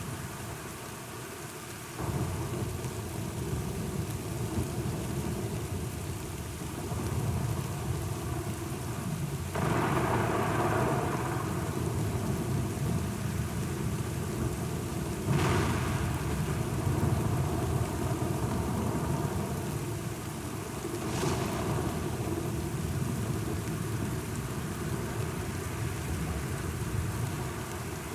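Thunderstorm: steady rain under a continuous low rumble of thunder. A louder swell of thunder comes about ten seconds in, and two sharp thunderclaps come about fifteen and twenty-one seconds in.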